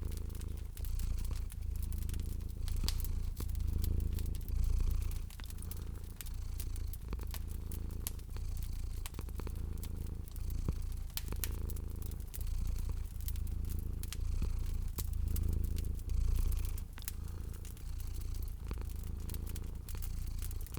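A domestic cat purring steadily, a low rumble that swells and fades with each breath. Under it a fireplace fire crackles with many sharp pops.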